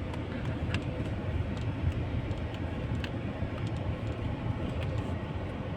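Steady low rumble of a car engine and cabin inside a slowly moving car, with a few faint clicks.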